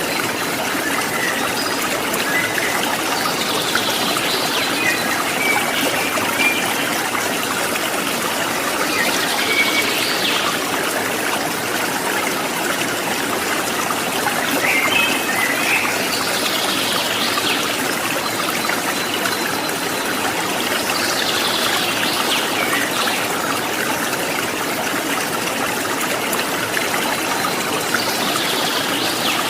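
Water trickling and babbling steadily like a small stream, with a bird repeating a short sweeping call about every six seconds, plus a few softer chirps in between.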